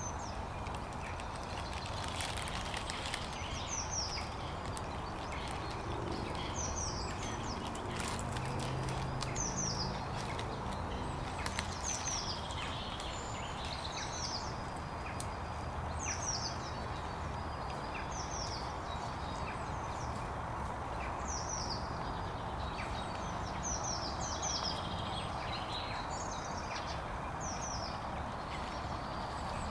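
A bird calling over and over, short high downward-slurred notes every second or two, over steady outdoor background noise.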